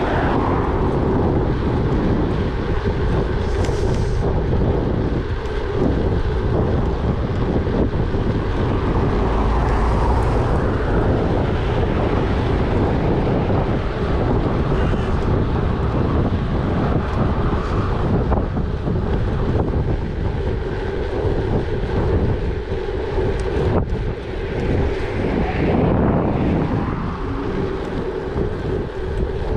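Wind rushing and buffeting on the microphone of a moving gravel bike, over the steady rumble of its tyres.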